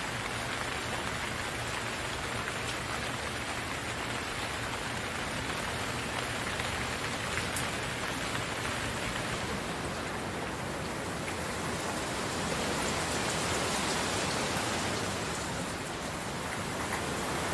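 Steady rain falling on a surface, a dense hiss with fine patter of drops that swells a little in the second half.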